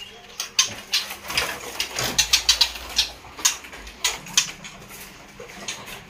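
Caged birds chirping: many short, sharp calls at an irregular rate, several a second.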